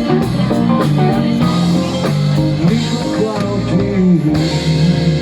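Live pop-rock band with electric guitar and drum kit playing the closing bars of a song. About four seconds in, the beat stops and the band holds a final chord.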